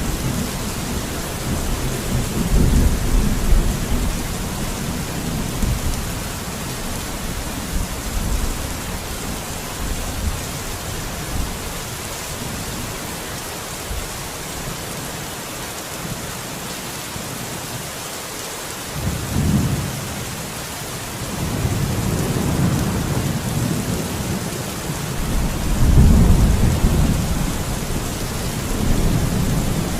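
Steady rain with rolling thunder: low rumbles swell and fade several times over the rain's even hiss, the loudest near the end.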